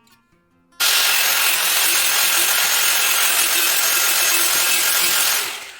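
A power tool working the steel rods of a refrigerator wire shelf: a loud, steady, harsh metal-grinding noise that starts abruptly about a second in and dies away just before the end.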